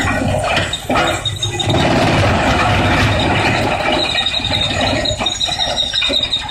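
Industrial wood pallet shredder running and grinding wood, a dense grinding noise over a pulsing low rumble with a high-pitched squeal; a steadier high tone joins about four seconds in.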